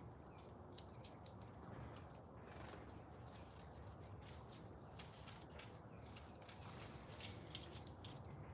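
Faint songbirds chirping in a garden, with many short, high notes in quick, irregular succession over a low background rumble.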